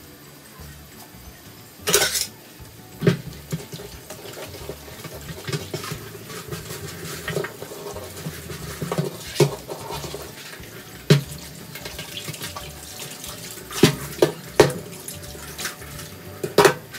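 A metal spoon clinking and scraping against a steel wok while thin sauce is splashed over a fried fish, with about eight sharp clinks at irregular intervals.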